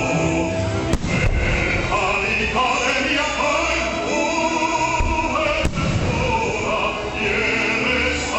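Music with operatic singing, broken by two sharp firework bangs, one about a second in and another near six seconds.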